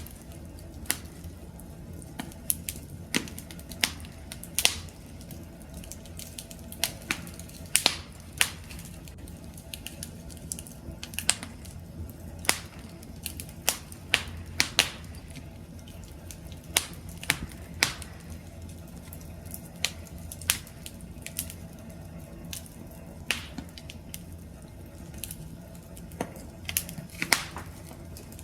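Wood fire crackling: irregular sharp pops and snaps, a few every second, over a steady low rumble of burning.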